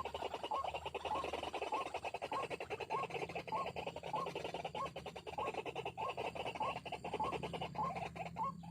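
White-breasted waterhen calling: a steady run of harsh, rattling croaks with short rising notes repeated about two to three times a second.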